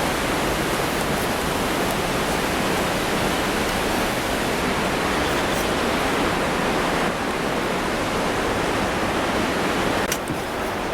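Waterfall pouring into its pool, a steady rushing of falling water.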